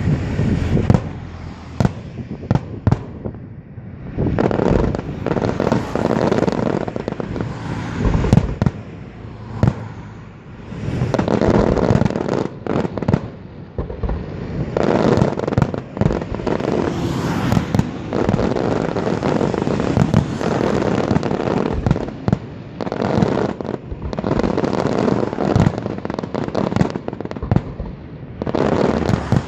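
Aerial fireworks display: a dense, continuous barrage of bangs and crackling bursts, easing off briefly a few times before building again.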